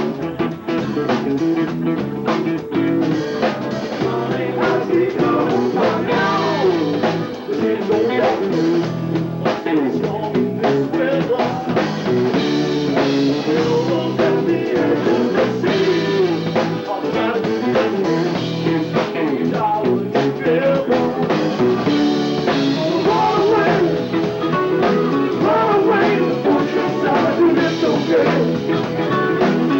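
Live rock band playing an instrumental stretch: electric guitar lead with bending, gliding notes over bass and drum kit, recorded from the audience onto a cassette, with the top end dull and muffled.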